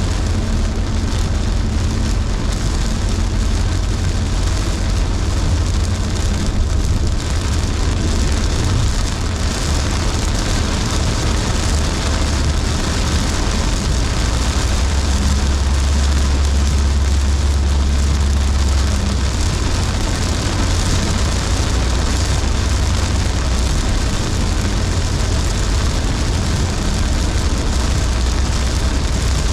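Car driving in heavy rain: a steady low road rumble under the hiss of rain and wet tyres.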